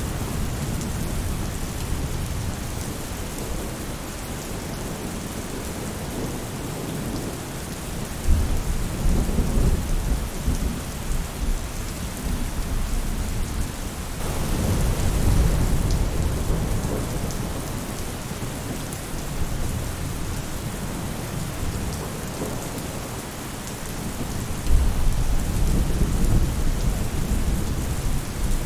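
Steady rain falling on a roof, with low rumbles of thunder swelling up three times: about a third of the way in, around the middle, and near the end.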